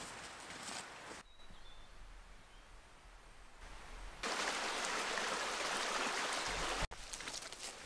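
Outdoor woodland sounds in short cut-together sections: crackly footsteps or rustling at first, a quieter stretch with a faint bird call, then a steady rushing noise that stops abruptly near the end before the rustling returns.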